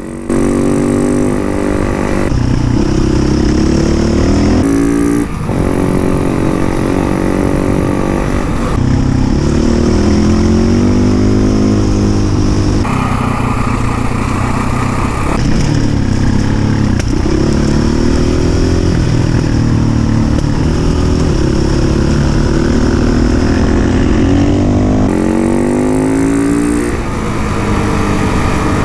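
Enduro dirt bike engine revving hard, its pitch climbing and dropping with throttle and gear changes, in a string of short clips that cut abruptly from one to the next.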